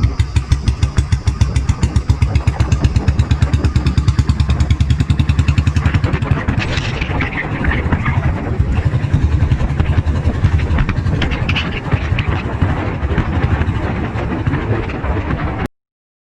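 Royal Enfield motorcycle exhaust running through an aftermarket bottle silencer: a loud, steady train of rapid thumping beats, cutting off suddenly near the end.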